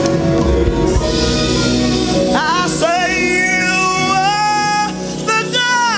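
Live gospel worship music: a band playing under singing, with long held and sliding vocal notes from about two seconds in.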